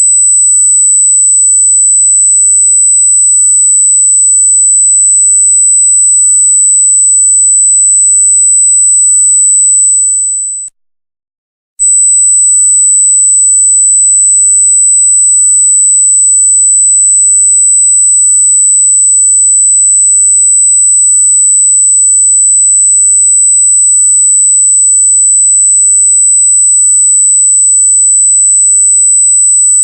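A loud, steady, very high-pitched electronic tone of a single pure pitch. It cuts out for about a second near the middle and then resumes unchanged.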